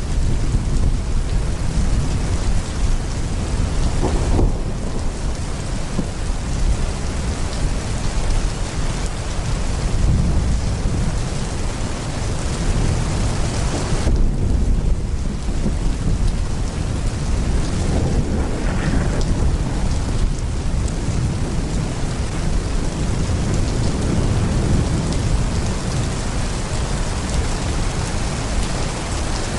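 Heavy rain pouring steadily, with thunder rumbling low underneath throughout.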